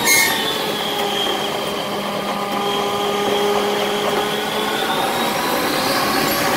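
Running noise of a Keihan electric train in a tunnel, with a short sharp noise at the start and whining motor tones that slide down and then rise again near the end.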